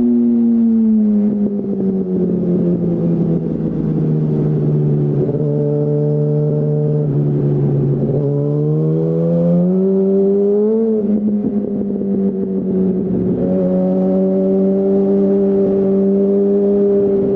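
2008 Yamaha R1's 998 cc inline-four through a Termignoni full exhaust, heard from the rider's seat. The engine note falls as the bike slows, holds low for a few seconds, climbs again with a brief dip about eleven seconds in, then holds steady.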